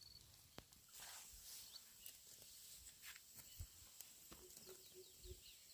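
Near silence with faint scattered clicks. About four and a half seconds in, a faint run of five short, low hooting notes from a bird.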